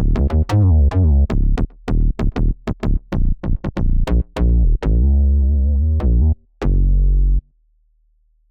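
Synthesizer preset demo from UVI Synth Anthology 5: a quick sequence of short, plucky synth notes over a deep bass, with one wavering, vibrato note partway through. It ends on a longer low note that cuts off about a second before the end, leaving near silence.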